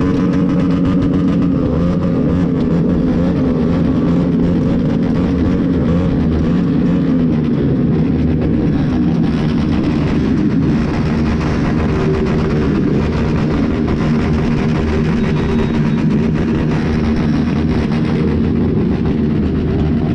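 Motorcycle engines running in traffic, their pitch wavering steadily up and down, with several engines overlapping.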